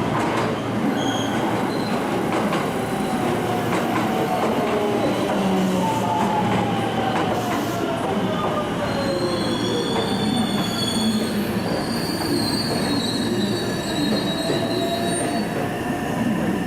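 JR West electric train running through the station, with steady rail and wheel noise, a whine that falls in pitch over a few seconds near the middle, and high-pitched wheel squeal in the second half.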